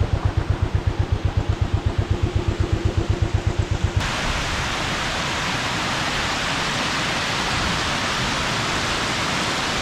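Steady rushing of a forest waterfall, which follows an abrupt cut about four seconds in. Before the cut there is a rhythmic low pulsing of about eight beats a second.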